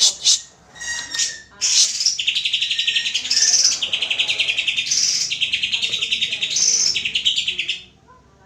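Greater green leafbird (cucak ijo) song: a few sharp high chirps, then a long, very fast rattling trill with whistled notes over it, which stops about a second before the end.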